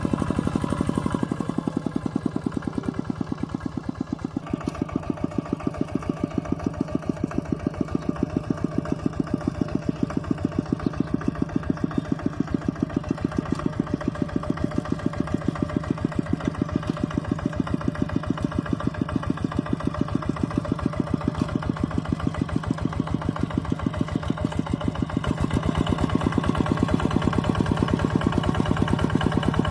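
Mini tractor engine running steadily while plowing, with an even chugging beat. It eases off slightly a couple of seconds in and grows louder in the last few seconds.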